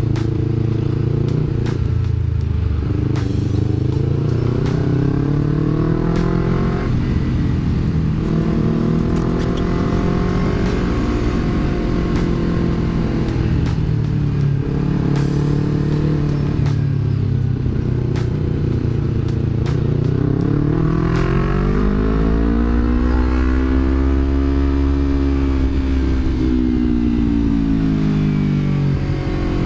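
Yamaha R25's parallel-twin engine running through a Villan MV1 aftermarket exhaust while riding, with a mellow bass note. The engine note climbs and drops several times as the bike accelerates and eases off, with one long smooth swell up and back down in the last third.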